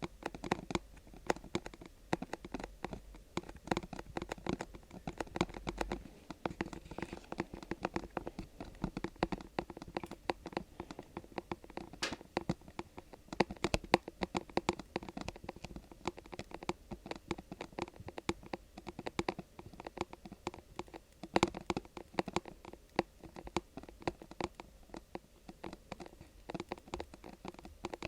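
Fingertips tapping and scratching rapidly on an object, a dense run of light clicks with a few sharper taps.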